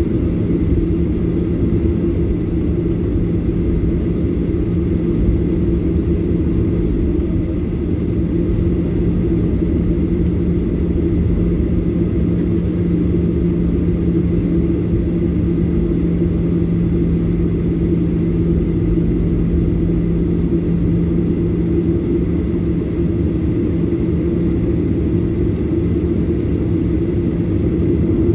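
Steady engine drone and rush of a Boeing 737-800's CFM56-7B engines heard inside the passenger cabin, holding an even level with a low hum underneath.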